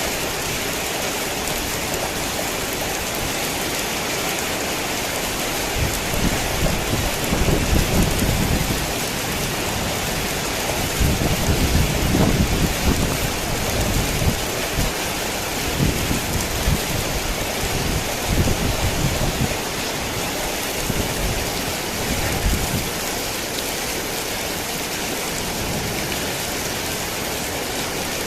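Heavy rain falling steadily. Low thunder rumbles in uneven waves from about six seconds in, is strongest around a quarter and again nearly halfway through, and dies away about three-quarters of the way through.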